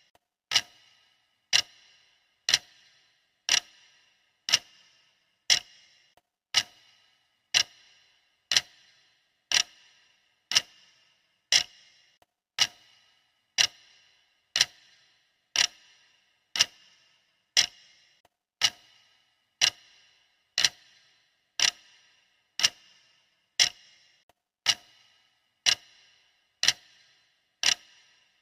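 Clock ticking steadily, one sharp tick a second, each with a brief ringing tail.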